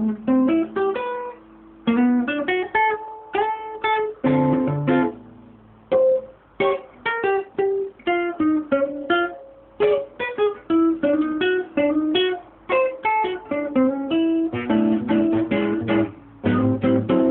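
Instrumental music on a plucked string instrument, playing quick runs of single notes with a few short pauses.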